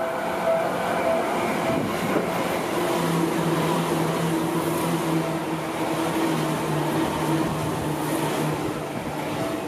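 Seibu 10000 series Red Arrow limited express electric train passing close by: a steady roar of wheels on rail with a low steady hum from the cars. A level-crossing warning bell, ringing about every 0.6 s, is drowned out as the train arrives and comes through again near the end.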